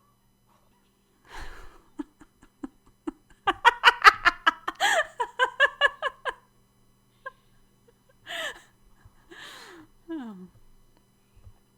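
A woman laughing. It starts with a breath and a few short pulses, breaks into a fast run of 'ha-ha' bursts about three to six seconds in, then tails off into breaths and a short falling sigh near the end.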